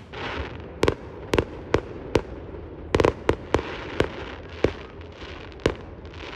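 Fireworks display: about a dozen sharp shell bursts in quick, irregular succession, a few nearly together about three seconds in, with crackling hiss between the bangs.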